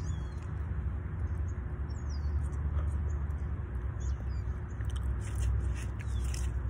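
Close-up wet chewing and mouth smacking on a mouthful of chili cheese fries, with a cluster of clicky smacks near the end. Short bird chirps sound over a steady low rumble.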